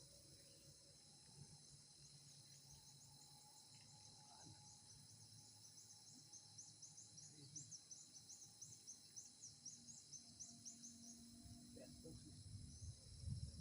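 Faint forest insect chorus: a steady high drone, with a quick run of short, high chirps repeating from about a second in until near the end.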